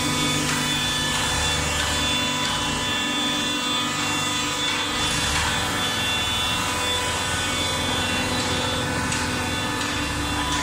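Automatic waste-paper baler running: steady machine noise with a constant whine, its low rumble shifting in level a few times.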